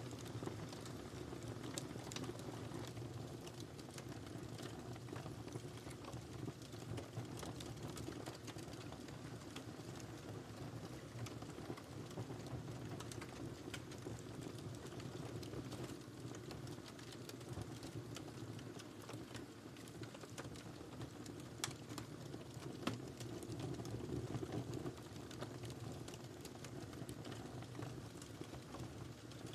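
Wood fire crackling steadily in a fireplace, with a low rumble of the flames under many small snaps and pops, and a couple of louder pops about three-quarters of the way through.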